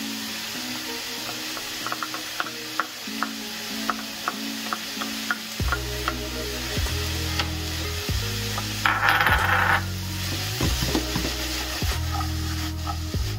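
Chopped onions and minced garlic sizzling in a nonstick frying pan, with a wooden spatula clicking and scraping against the pan as they are stirred, and one louder scrape near the middle. Background music plays under it, with a bass line coming in about halfway.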